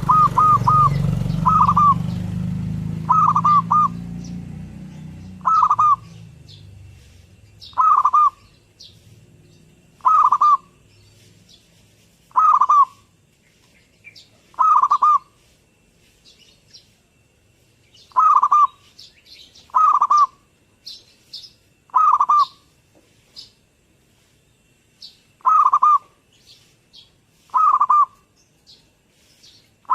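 Zebra dove (perkutut) cooing: short phrases of quick, soft coo notes, repeated about every two seconds. Faint high chirps from smaller birds run between the phrases. A low rumble at the start fades away over the first few seconds.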